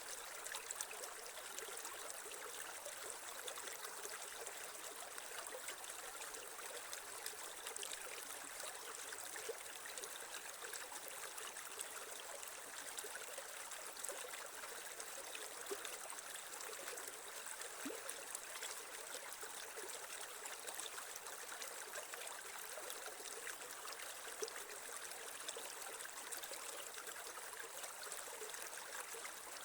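Shallow creek water running over stones: a steady babble with small splashes and trickles scattered through it.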